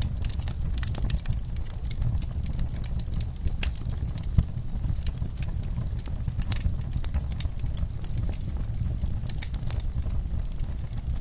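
Wood fire crackling in a fireplace: irregular sharp snaps and pops over a steady low rumble of the flames, with one louder pop a little before halfway.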